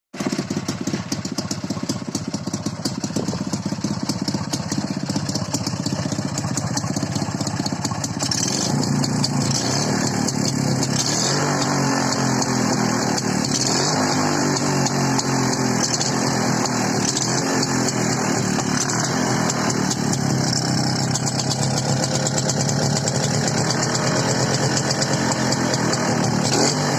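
Jawa 250 type 353 single-cylinder two-stroke motorcycle engine running. About eight seconds in, its sound changes and gets a little louder.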